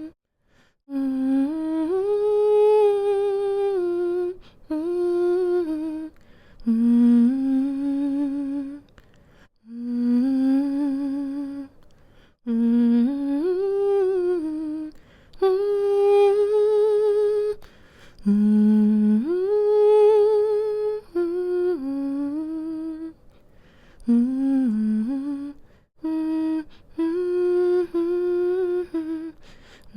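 A woman humming a slow, soothing lullaby-style tune to lull a baby to sleep, holding long notes with slight vibrato and pausing briefly for breath between phrases.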